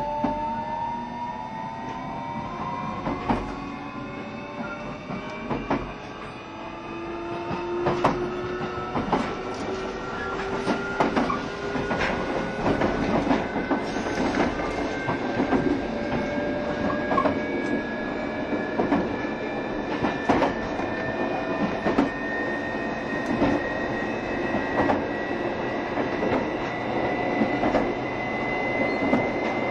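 JR Shikoku 7200 series electric train picking up speed: the traction motors' whine, several tones together, rises steadily in pitch. Sharp wheel clicks over rail joints come at intervals from about a quarter of the way in.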